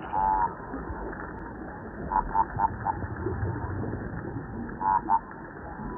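Underwater hydrophone recording of the Mediterranean 'quaqua': short toad-like croaking fish calls from a species not yet identified, over steady underwater noise. One call comes at the start, a quick run of three about two seconds in, and two more near five seconds.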